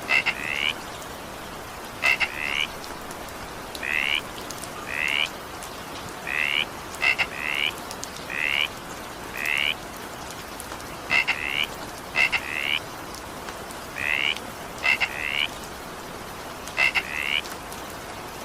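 A frog croaking in short calls, often in pairs, repeating about every second, over a steady hiss of falling rain.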